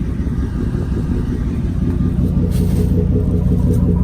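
Lincoln Navigator engine idling through an aftermarket Carven R Series exhaust, a steady deep note that grows a little louder about two seconds in. It is deep at idle, with a ringing chime in the tone.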